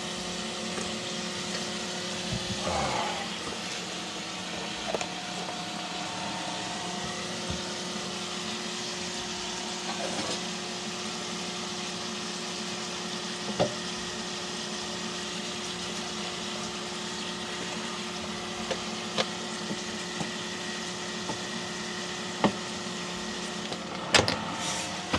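Breakfast sausage sizzling in a cast-iron pan, a steady hiss over a constant low hum, with a few light clicks and taps scattered through.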